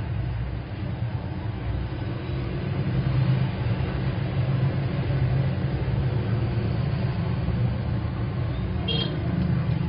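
Steady low rumble of background road traffic, with a brief high tone near the end.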